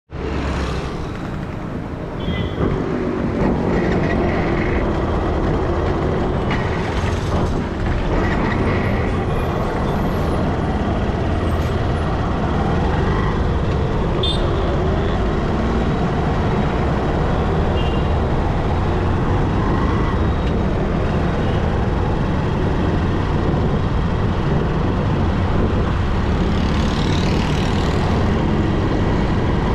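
Motorcycle riding through city traffic: steady engine and road noise, with other vehicles passing and a few short horn-like tones in the first ten seconds.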